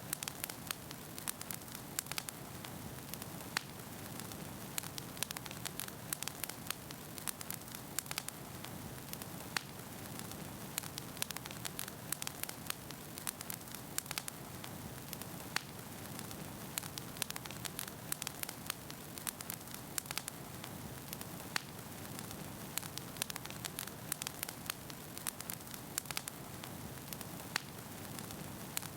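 Campfire of burning wood crackling, with frequent irregular sharp pops and snaps over a low steady hiss.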